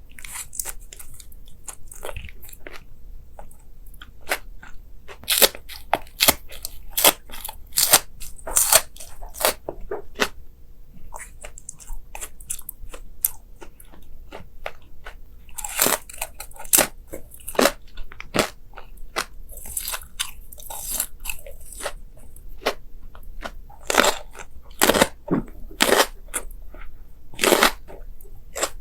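Close-up eating sounds: crisp, crunchy bites and chewing coming in irregular clusters of sharp crunches, with quieter chewing in between.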